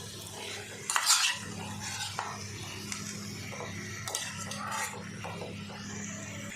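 A spatula stirring and scraping chicken and masala in a kadai, with a few sharper scrapes about a second in and around four seconds in, over a steady low hum.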